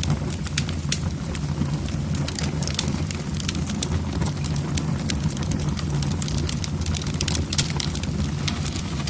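Wood fire burning in a fireplace, the logs crackling with many irregular sharp pops over a steady low background.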